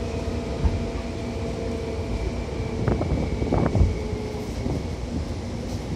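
Seibu 2000 series electric train running: a steady low rumble of wheels on rail with a few steady whining tones, and a handful of short knocks about three to four seconds in.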